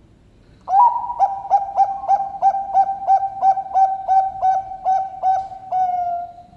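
Bangkok-strain zebra dove (perkutut bangkok) cooing its song, with a deep, full tone: one opening note, then a steady string of about fourteen short coos at about three a second, ending on a longer, slightly falling note.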